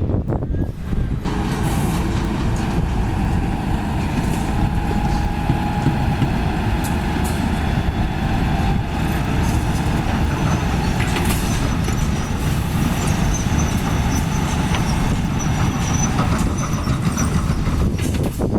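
Diesel engine of heavy construction machinery running steadily, a loud low rumble that takes on a harder, higher edge about a second in. A faint thin high squeal comes through in the second half.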